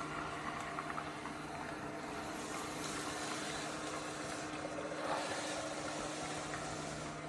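Robot vacuum-mop running: a steady motor whir and hiss over a low, even hum.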